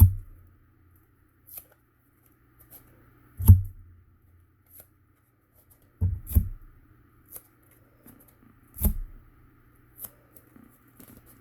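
Cardstock pieces and masking tape being handled and pressed together on a table: about five dull thumps with faint rustles and clicks between them.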